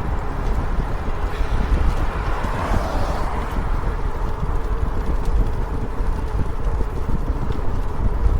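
Wind rushing over the microphone of a riding e-bike, a steady low rumble with a brief rise in hiss about two to three seconds in.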